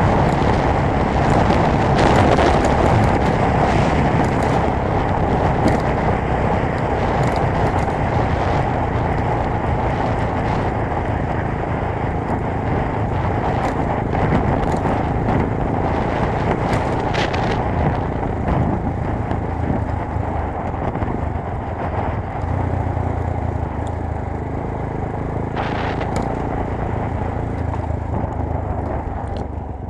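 GX-R 250S 250 cc motorcycle running at speed, its engine under a heavy, even rush of wind noise, gradually getting a little quieter.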